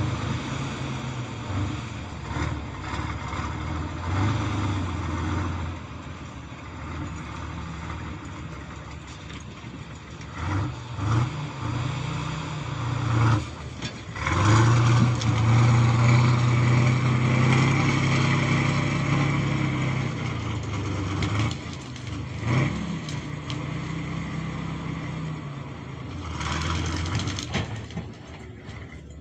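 Kirovets K-701 tractor's diesel engine running, rising to a louder, harder-working pitch for several seconds in the middle of the stretch, then easing back to a lower speed.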